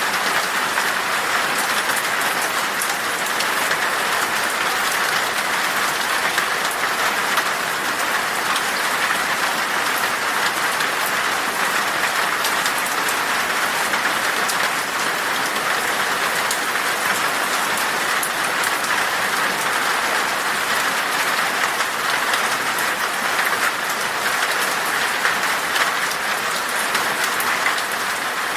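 Steady rain falling in a forest, a dense even patter of drops with no let-up.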